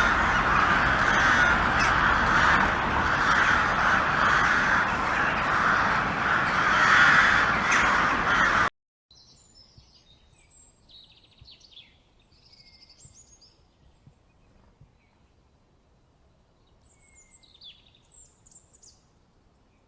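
Many crows cawing at once, loud and continuous, until it cuts off abruptly about nine seconds in. Faint, scattered chirps and short whistles of small songbirds follow, with a small cluster of calls near the end.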